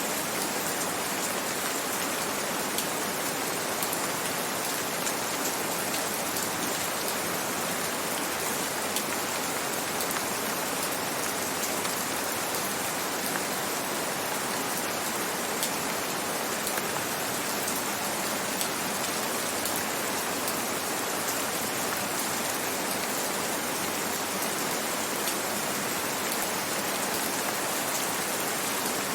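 Steady rain falling, an even hiss with faint fine drop ticks.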